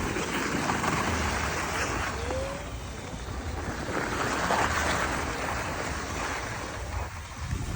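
Wind buffeting the microphone: a rushing noise with a low rumble, swelling twice.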